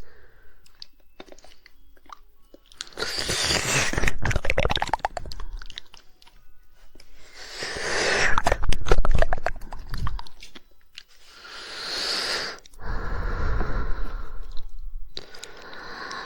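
Close-miked ASMR mouth sounds: rapid, wet 'woodpecker' tongue clicking. It comes in four runs of a few seconds each, with quieter gaps between them.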